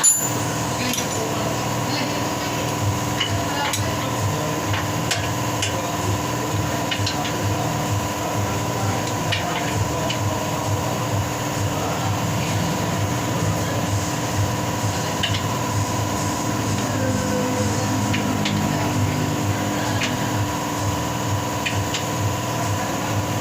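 Workshop tool work: scattered light metal taps and clicks over a steady machine hum with a regular low pulse, and a sharp knock at the very start.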